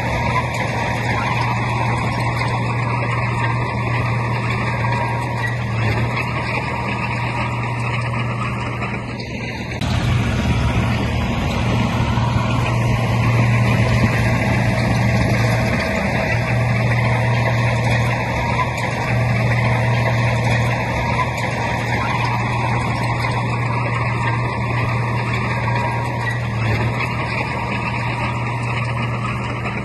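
Heavy diesel engine of earthmoving machinery running steadily, a continuous low drone with a short dip about ten seconds in.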